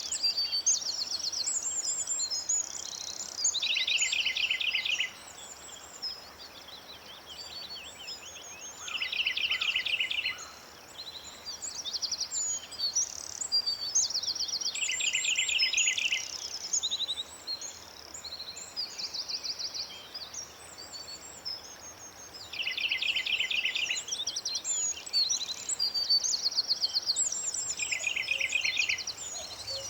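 Several birds singing and calling at once: a fast trill about a second long recurs every five to six seconds, over continual high chirping and twittering.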